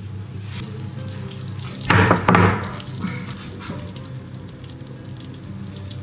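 A brief rush of running water, like a kitchen tap turned on and off, about two seconds in, over soft background music.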